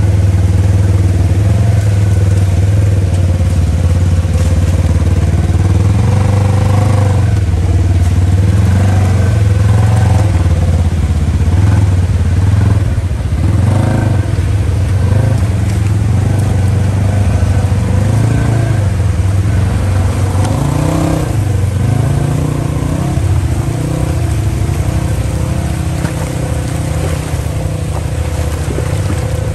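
Honda Pioneer 1000 side-by-side's parallel-twin engine running steadily under load, its pitch rising and falling as the throttle changes.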